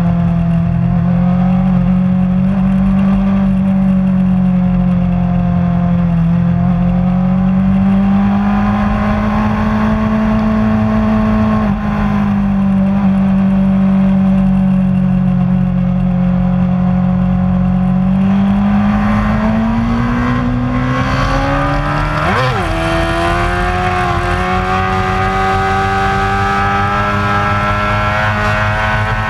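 Superbike racing motorcycle engine running hard at sustained high revs, its pitch drifting slowly down and up. About 22 seconds in the note jumps sharply up and back down, and near the end it climbs steadily.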